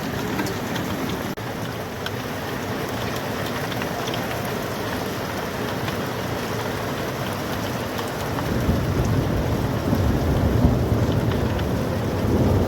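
Heavy rain mixed with hail, a steady wash of falling water with scattered small ticks of hailstones striking. A low rumble builds about two-thirds of the way in.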